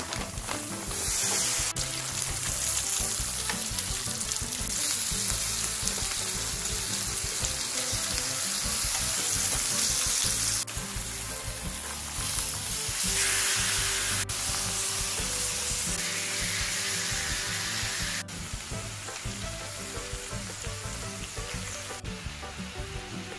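Beef intestines, tripe and vegetables frying on a hot stainless-steel griddle pan: a loud, steady sizzle that shifts abruptly in level and texture several times.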